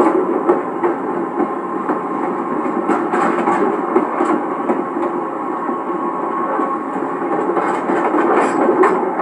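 Passenger coach running behind a DE10 diesel locomotive, heard from the coach's end deck: a steady rumble of the moving train with scattered sharp clicks from the wheels and track.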